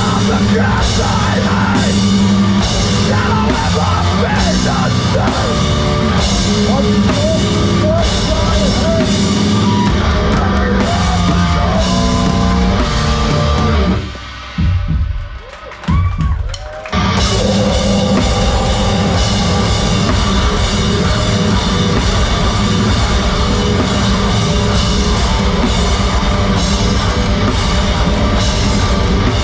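Heavy rock band playing live at full volume, drum kit pounding under dense amplified instruments. About halfway through the band stops for roughly three seconds, leaving a few sliding tones, then crashes back in.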